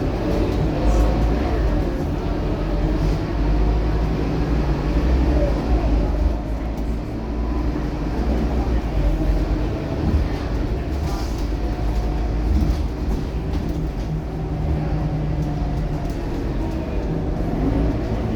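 Scania K230UB city bus's five-cylinder diesel engine running under way, a steady low drone whose engine note rises and falls a little as the bus accelerates and eases off.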